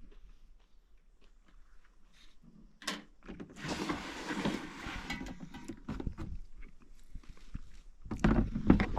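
Handling noises while food and gear are set out: a sharp click about three seconds in, then a rustling noise lasting about a second and a half, followed by scattered light clicks and knocks.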